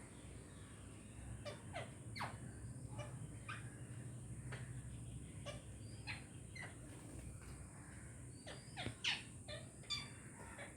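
Parrots giving short, sharp calls, scattered and irregular, some sliding down in pitch, the loudest a little before the end.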